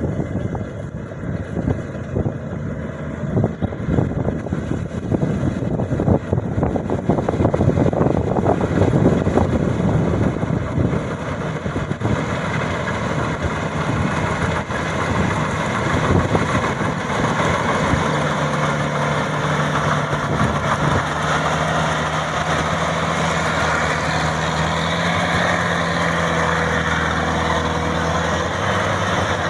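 Combine harvester engine running. The sound is rough and uneven at first, then settles into a steady hum of constant pitch past the middle.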